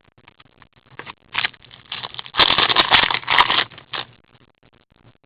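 Trading card packaging and cards being handled, rustling and scraping. There is a dense crinkle for about a second midway and the sound dies down near the end.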